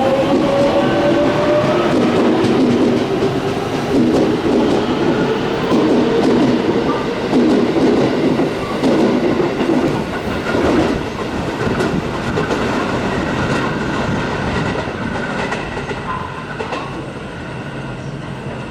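JR West electric commuter train pulling away: its motor whine rises in pitch in the first couple of seconds, then the wheels clatter over the rail joints, growing fainter toward the end.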